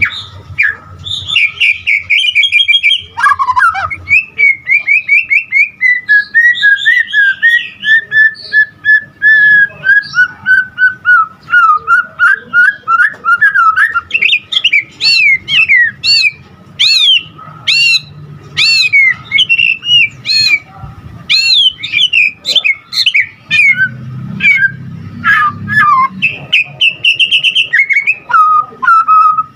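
White-rumped shama (murai batu) singing a long, varied song of fast whistled notes and trills, with phrases that rise and fall and quick runs of repeated notes. The bird is in full song ('gacor'), with borrowed phrases of other birds worked in ('isian').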